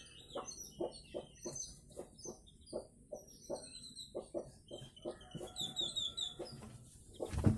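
Chickens clucking in short repeated notes, about two to three a second, with small birds chirping high above them. A louder low thump comes near the end.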